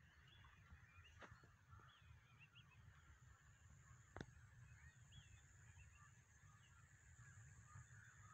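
Near silence: faint outdoor ambience with distant bird chirps scattered throughout over a low rumble, and a single sharp click about four seconds in.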